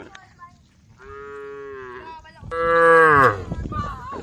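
Cows mooing: one steady moo about a second in, then a louder moo whose pitch falls away near the end.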